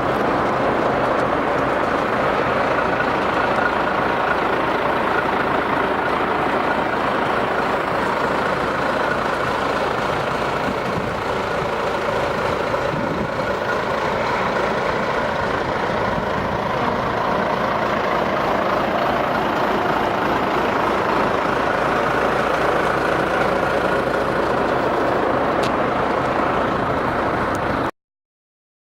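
Steady noise of an engine running, like a truck or heavy machine idling, unchanging throughout and cutting off suddenly near the end.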